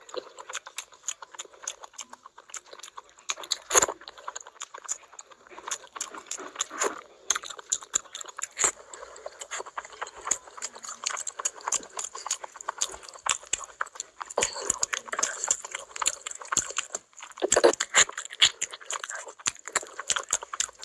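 Close-miked wet chewing and lip-smacking of a mouthful of rice and curry eaten by hand: a constant run of quick smacks and clicks, with louder bursts about four seconds in and again near the end.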